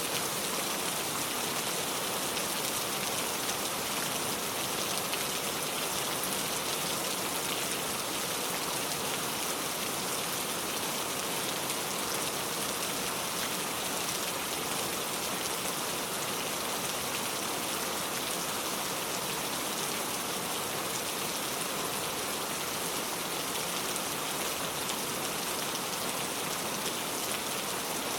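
Steady rainfall, a dense even patter of drops with a bright hiss and no pauses.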